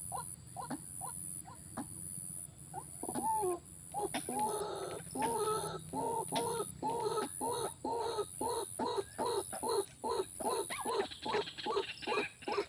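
An animal giving a long run of short, evenly repeated calls, about two to three a second, faint at first and louder from about four seconds in.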